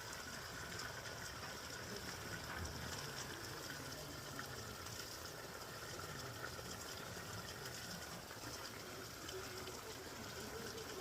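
Faint, steady outdoor background hiss with no distinct event; the plant being touched makes no audible sound.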